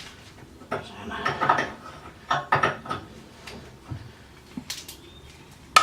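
Metal hand tools clinking and clattering in a run of short knocks, then a couple of faint clicks near the end, as work starts on the rusty sway bar bolts.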